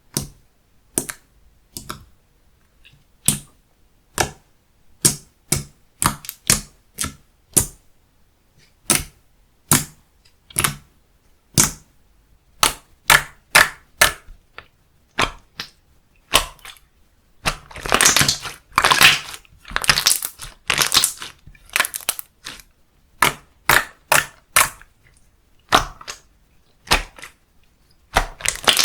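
Hands pressing and stretching slime, making a steady run of sharp pops and clicks about one or two a second. About eighteen seconds in, and again near the end, these give way to longer crackling stretches.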